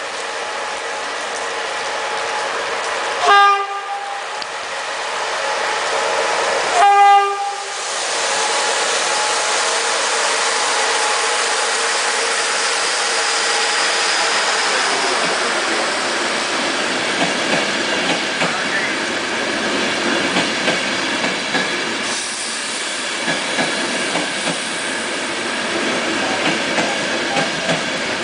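A locomotive horn sounds two blasts, the second longer. A train then rolls past with a steady rumble, and from about halfway on come regular beats of clickety-clack as the wheels cross the rail joints.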